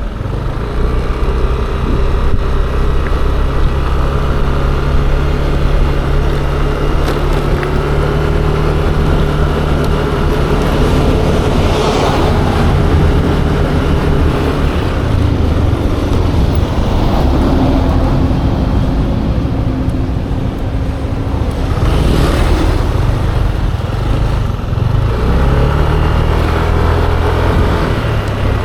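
Yamaha Aerox 155 scooter being ridden in town traffic: a steady engine drone that shifts in pitch as the speed changes. Two brief louder rushes of noise come about a third and three-quarters of the way through.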